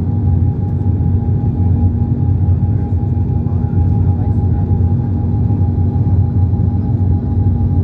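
Steady cabin noise of an Embraer 195 airliner in flight: a loud, even low rumble from its jet engines and the airflow, with a steady whine running through it.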